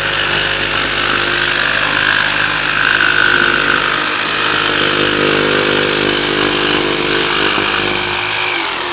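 Electric power saw cutting a plywood template, the motor running steadily under load and winding down near the end.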